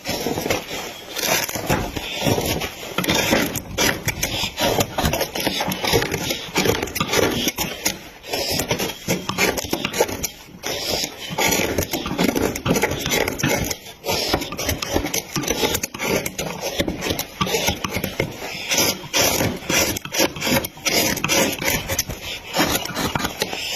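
A tool scraping and cutting into wood in quick, irregular strokes, as in wood carving.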